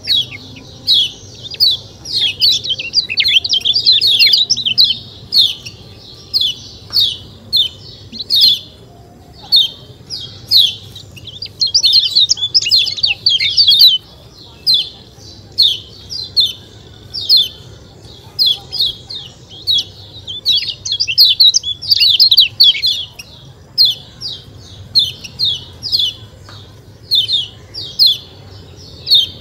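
Kecial kuning (a yellow white-eye) giving its 'ciak ciak' call: many short, high chip notes, each dropping quickly in pitch, repeated several times a second in runs with brief pauses between.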